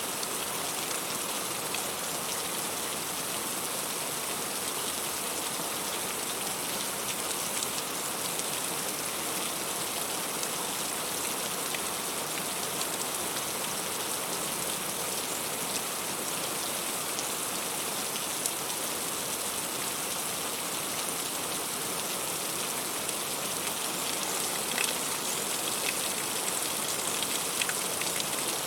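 Heavy rain falling steadily on fruit-tree leaves: a dense, even hiss with many individual drops ticking through it, a little busier near the end.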